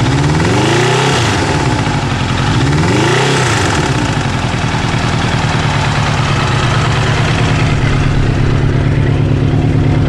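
Kawasaki GPZ900R inline-four engine blipped twice, rising and falling in pitch, then settling into a steady idle. A rhythmic hammering runs through it that the owner cannot explain, on an engine that stutters above about 3000 rpm.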